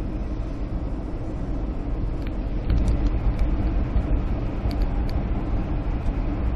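Steady low rumble of a car driving at highway speed, heard from inside the cabin: engine and tyre road noise, with a few faint small ticks, getting a little louder about a third of the way in.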